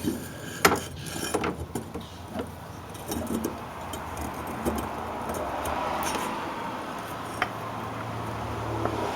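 Light metal clinks and rattles of a brake cylinder hone and small tools being handled, with a few sharp clicks spread through.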